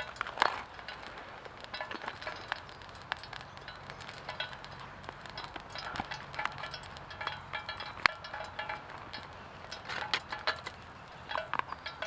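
Small metal and glass clinks, clicks and rattles of camp gear being handled, scattered irregularly.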